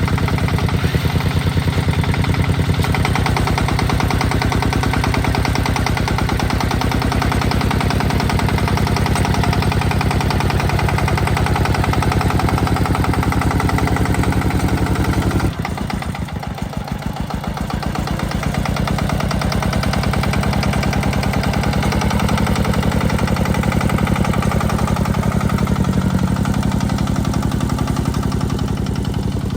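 Tractor engine running steadily with rapid, even firing pulses; about halfway it drops away briefly, then builds back up.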